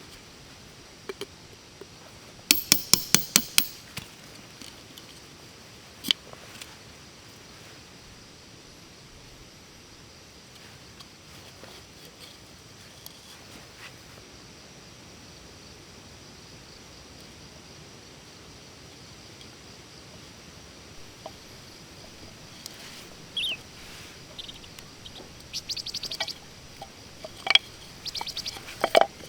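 A quick run of about eight sharp clicks a few seconds in and a single knock soon after. A long stretch of faint steady hiss follows, then scattered short chirps and clicks near the end.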